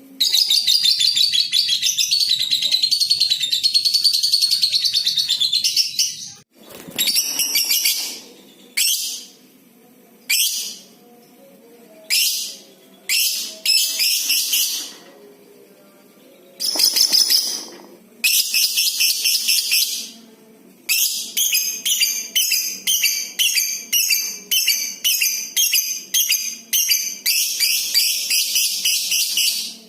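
Lovebird calling in long, high-pitched chattering trills (the 'ngekek' call), broken into shorter bursts midway, with a long rapid pulsing run near the end.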